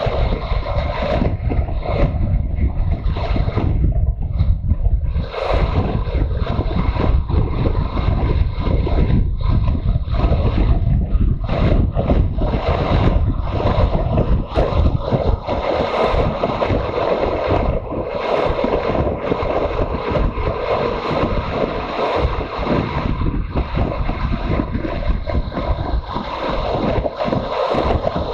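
Wind rushing over the microphone of a riding motorcycle, mixed with the steady running of its engine.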